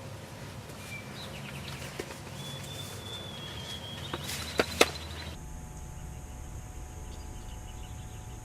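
Songbirds chirping, with one longer trill, over outdoor background noise, and two sharp clicks close together a little past the middle. Then the background cuts abruptly to a steady hiss with a faint hum.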